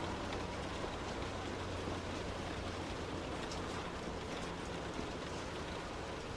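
Heavy rain hitting a moving car, a steady hiss with scattered drop impacts, over a low steady hum from the car and its tyres on the wet road.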